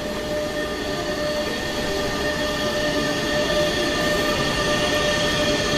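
Slow train of coupled locomotives, an electric locomotive hauling a diesel and another electric, passing close by: a steady rumble with several steady high-pitched whining tones on top, growing slightly louder.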